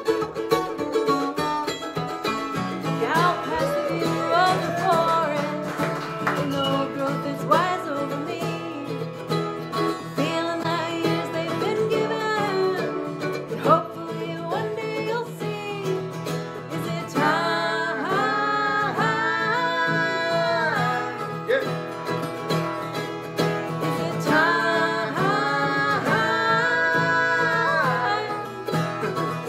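Acoustic string band playing live: guitar with other plucked strings in a bluegrass style, with a sustained wavering melody line coming in during the second half.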